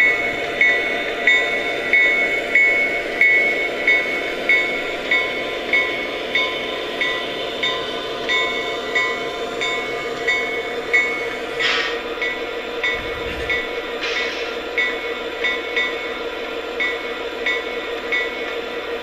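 Lionel Lionmaster SD90 model diesel's sound system running its engine drone steadily, while its bell rings about every two-thirds of a second and stops near the end.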